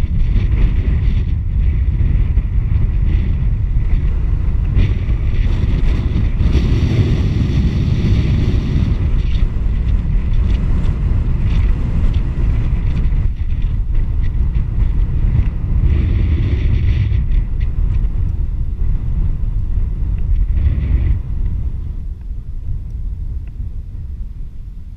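Loud, steady wind rumble buffeting the microphone while riding a bicycle; it eases off about 21 seconds in.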